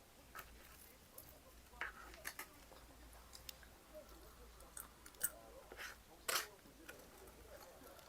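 Close-up eating sounds: chewing with scattered sharp crunches and clicks at irregular intervals, the loudest two a little past halfway.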